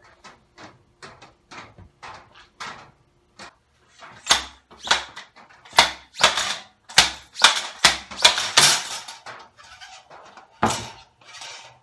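Workshop handling noise: a string of light clicks and taps, then from about four seconds in a run of louder, short rustling and clattering bursts as parts are handled.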